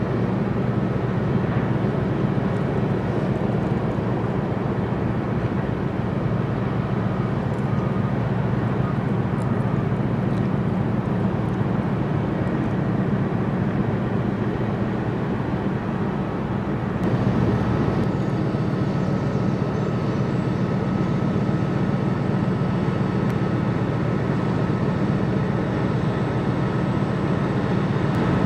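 Boat engine running with a steady low drone and a faint steady whine above it; the sound shifts slightly about two-thirds of the way through.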